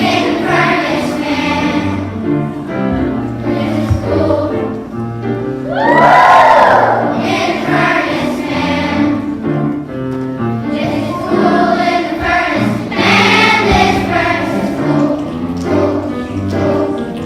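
A children's choir singing a song over instrumental accompaniment with a steady bass line. A loud swooping sung note comes about six seconds in.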